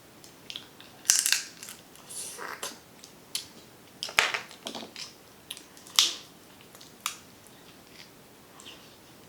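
Shellfish shells from a shrimp and snow crab boil being cracked and crunched while eating: a scatter of sharp, irregular crackles, the loudest about one, four and six seconds in.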